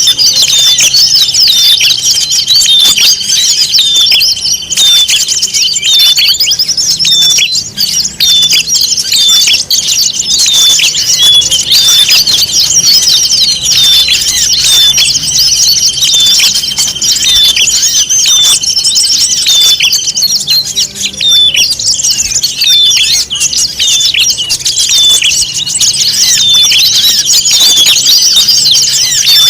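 A dense chorus of many small songbirds chirping, squeaking and trilling at once, a 'noisy birds' lure recording used to draw wild birds in. Under the rapid chirps a steady high note is held, which drops out about two-thirds of the way through and returns near the end.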